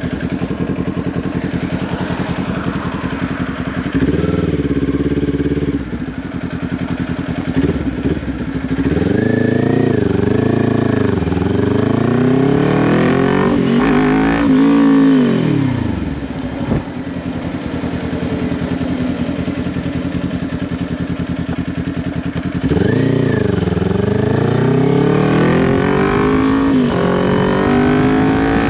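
Kawasaki Ninja 400's parallel-twin engine through a Leo Vince LV10 aftermarket exhaust, heard while riding. It runs steadily at first, then the engine note rises and drops again and again as it pulls away and accelerates. It settles for a few seconds, then climbs and falls again near the end.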